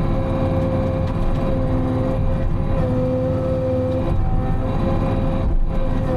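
Diesel engine of a Timberjack 608 forestry machine running steadily under hydraulic work, with a steady whine over the drone that shifts slightly in pitch partway through, heard from inside the cab.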